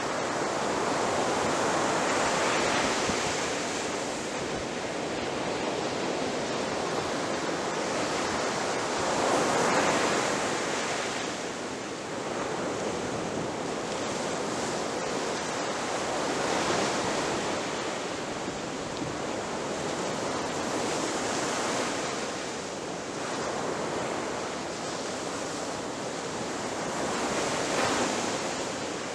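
Ocean waves breaking on a shore: a continuous wash of surf that swells with a louder breaker every five to seven seconds, the strongest about ten seconds in and again near the end.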